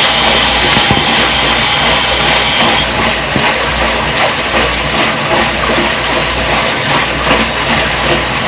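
Front-load washing machine running with water rushing through it; a high hiss drops away about three seconds in.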